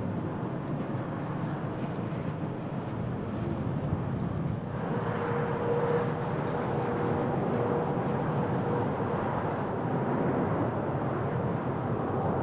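Jet airliner engines on landing approach, a steady rumble. About five seconds in it cuts to a different airliner, an Airbus A350-941 with Rolls-Royce Trent XWB engines, whose sound is brighter and carries a steady whine.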